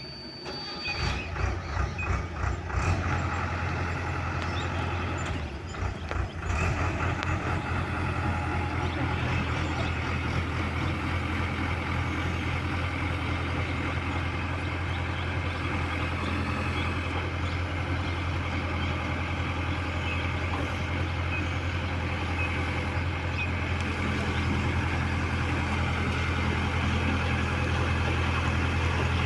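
Large diesel engine of heavy earthmoving machinery. It comes on about a second in with a few uneven surges, dips briefly around six seconds, then runs steadily.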